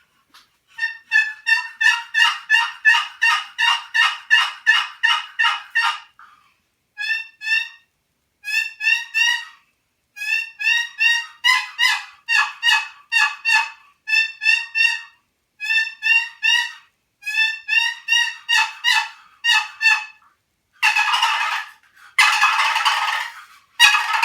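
Short-box turkey call, hand-tuned for fall calling, played as runs of quick turkey notes, about three a second, in groups with brief pauses; near the end come two longer, noisier strokes of the lid.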